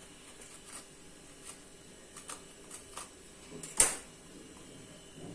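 Scattered light clicks and taps of a knife working on a capsicum while its seeds are cut out, with one sharp, louder click nearly four seconds in.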